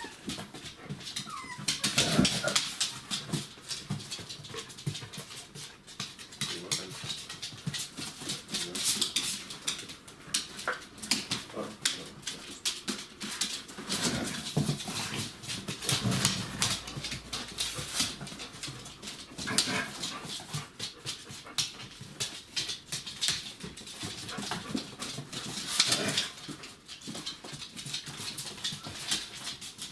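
Border collie puppies whimpering and giving small yips, over constant small clicks and scuffles as they move about.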